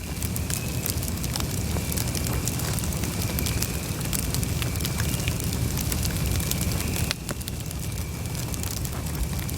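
Campfire burning, with a steady low rumble of flames and wood crackling and popping in sharp, irregular snaps. The rumble eases slightly about seven seconds in.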